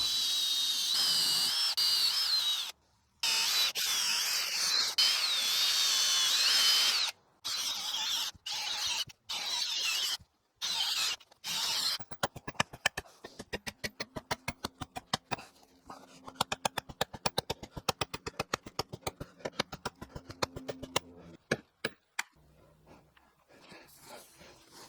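Power drill boring through a 4x6 timber with a long 3/8-inch bit, its whine wavering in pitch and cut off by several sudden gaps. About halfway through it gives way to a long run of rapid, evenly spaced clicks.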